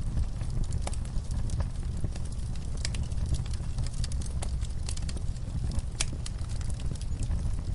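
Fireplace fire crackling: irregular sharp pops and snaps, a few louder ones such as about six seconds in, over a steady low rumble of the burning fire.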